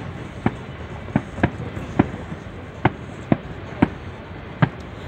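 Aerial firework shells bursting in a quick, uneven string of sharp bangs, about one or two a second.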